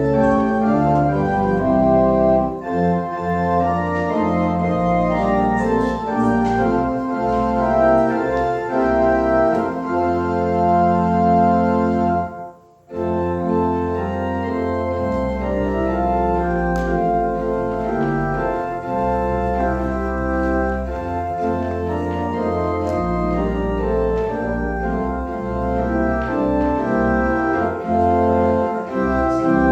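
Organ playing held chords over a moving bass line, with a brief break between phrases about twelve seconds in.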